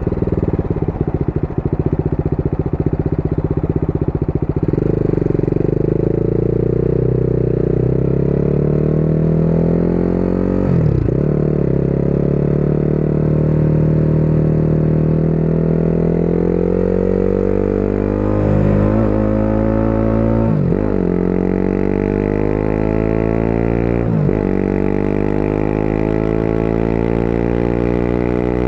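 Motorcycle engine pulling on the open road, low and rough at first and then rising in pitch as it accelerates. The pitch dips sharply four times and climbs again, as at gear changes. Wind rushes past as it rides.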